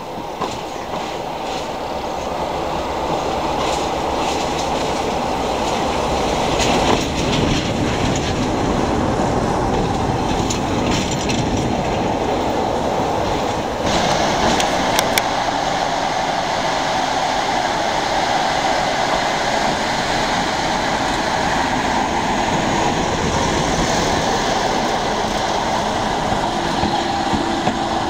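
Diesel-hauled train of coaches moving through a station: the steady rumble of the locomotive and rolling stock, with wheels clacking over rail joints, the clacks clearest in the first half. The sound grows louder over the first few seconds and changes character about halfway through.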